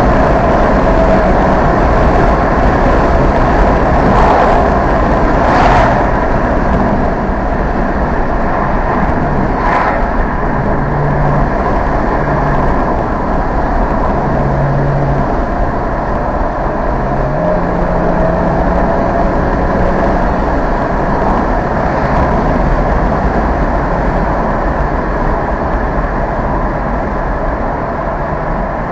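Car engine and road noise heard while driving in traffic, the engine tone stepping up and down in pitch as the speed changes. A few brief knocks come in the first ten seconds.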